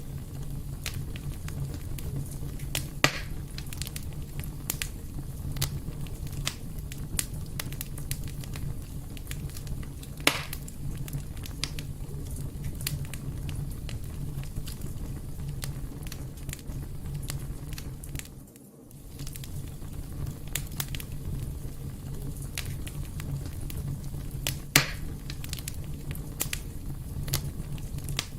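Wood fire burning in a fireplace: a dense, steady crackle over a low continuous rumble, with three louder pops spread through. The sound briefly drops away for a moment about two-thirds of the way through.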